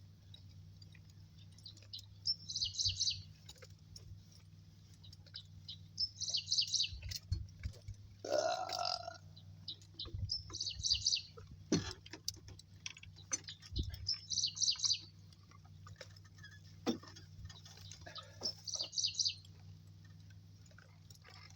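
A songbird repeating a short, high phrase about every four seconds. Around eight seconds in there is one lower, rougher call, and a few soft knocks and thumps come through over a steady low hum.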